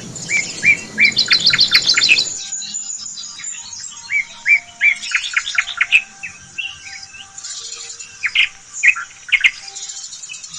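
Small birds chirping in runs of short, quick notes, with a change in the background hiss about two seconds in, where the recording cuts.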